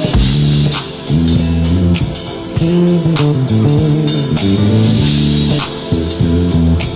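Live band music led by an electric bass guitar playing a featured, moving melodic line, backed by a drum kit with cymbal strikes.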